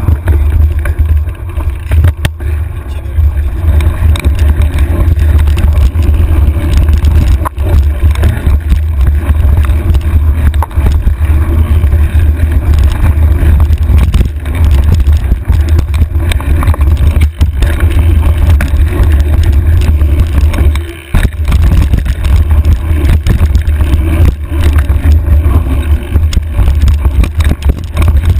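Heavy low wind rumble and rattling clatter picked up by a handlebar-mounted camera on a mountain bike riding a rough trail, with scattered knocks as the bike jolts over rocks. The noise dips briefly about two-thirds of the way through.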